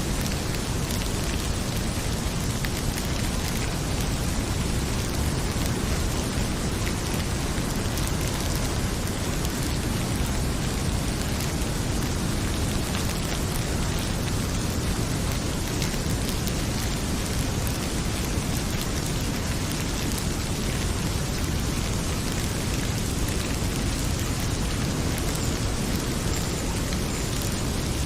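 Heavy rain pouring as a steady rushing hiss, with the scattered crackle of a wood fire in a fireplace.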